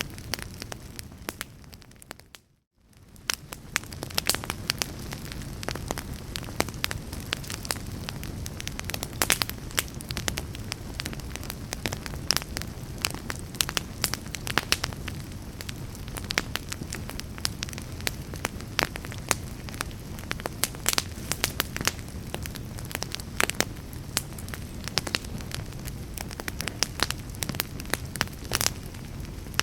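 Wood fire crackling in a fireplace: a steady low rumble of flames with dense, irregular pops and snaps. About two seconds in the sound fades briefly to near silence, then fades back up over about a second.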